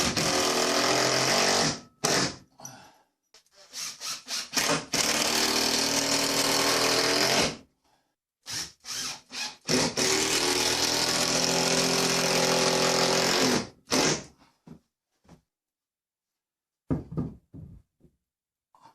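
Power drill driving screws into the timber of a new roof support: three long runs of a few seconds each, with short trigger blips in between, then a few small clicks near the end.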